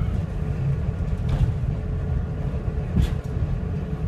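Inside the cab of a Class 141 Pacer railbus on the move: the steady low rumble of its Cummins diesel engine and wheels on the rails. Two brief knocks come through, about a second in and about three seconds in.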